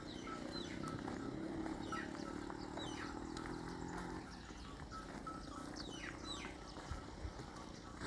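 Birds chirping, many short falling calls scattered throughout, over a low steady hum that fades out about halfway through.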